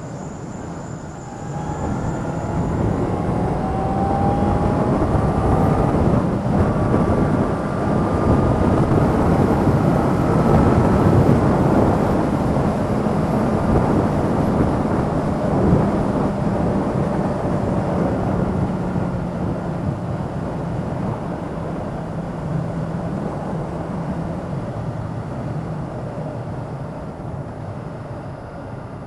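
Motorcycle engine and wind rush while riding, the engine note climbing in pitch several times in the first ten seconds or so as it accelerates. The sound then slowly fades.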